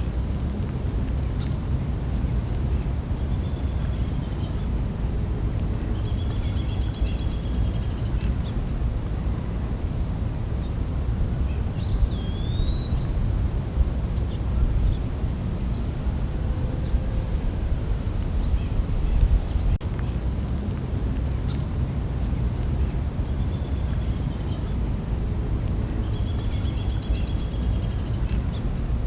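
Night forest ambience of insects: a steady high-pitched drone with rhythmic cricket chirps in short runs. A few longer trills come twice early on and again near the end, there is a single curving call about twelve seconds in, and a low rumble runs underneath.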